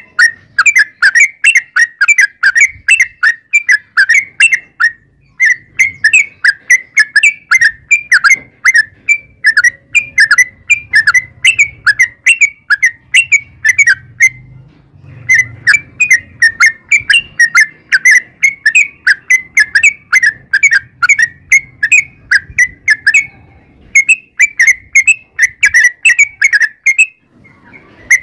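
Yellow-vented bulbul (trucukan) singing a long rapid chatter: short, sharp, whistled chirps several times a second, in long runs broken by a few brief pauses.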